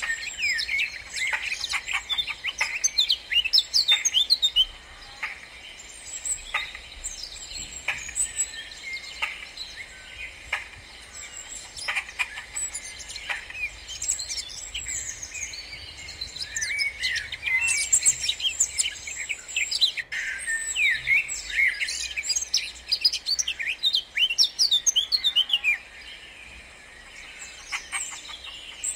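Songbirds chirping and singing outdoors, several at once, the calls coming thickly in the first few seconds and again from about the middle to near the end, sparser in between.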